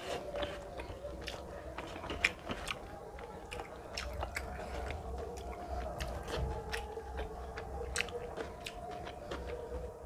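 A person chewing mouthfuls of rice and fish curry with many short wet mouth clicks and smacks, over a steady low hum.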